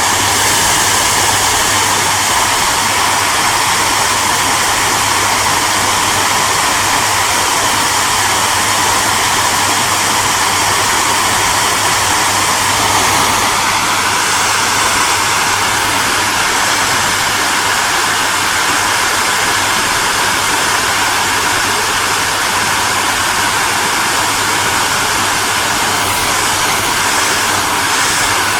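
Hair dryer running steadily: a continuous rush of blown air over a low, even motor hum.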